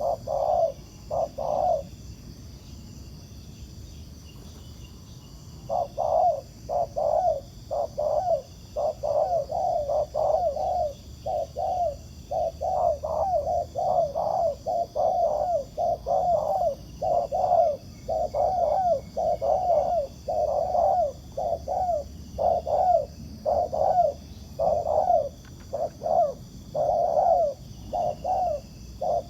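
Spotted doves cooing in short, rapid, repeated coos, with a gap of a few seconds near the start. This is a wild male answering a caged decoy dove.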